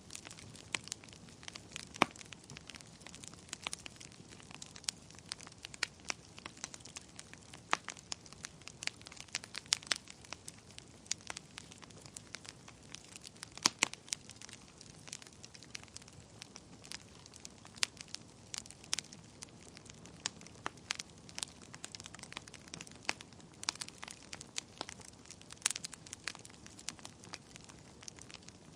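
Wood fire burning in a fireplace: irregular sharp crackles and pops over a soft low rumble of the flames.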